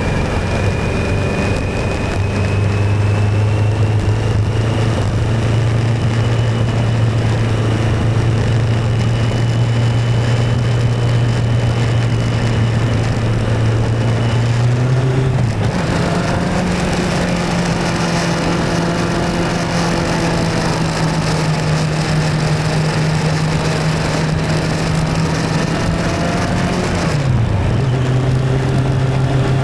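Motorcycle engine running steadily on the move over a constant rushing noise. Its pitch steps up about halfway through and drops back near the end, as with a gear or throttle change.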